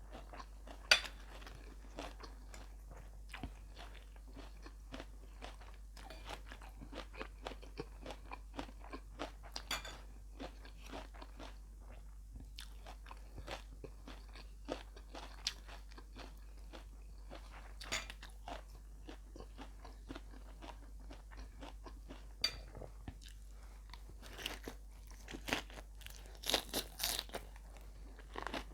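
Close-miked chewing of larb nuea with rice: irregular crunches and wet mouth clicks, with one sharp loud crunch about a second in and a quicker run of louder crunches near the end.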